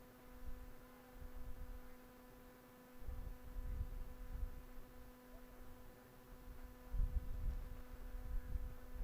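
Faint steady electrical hum, with low rumbling that comes and goes, strongest from about a third of the way in and again near the end.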